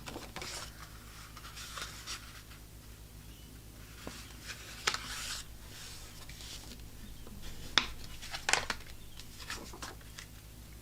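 Paper and craft supplies being handled on a desk: soft intermittent rustling with a few light, sharp clicks, over a low steady hum.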